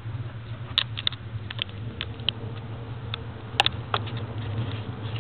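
Inside a moving Intercity passenger carriage: the train running along the track as a steady low rumble and hum, with about ten sharp clicks and ticks scattered through it, two louder ones about a second in and past halfway.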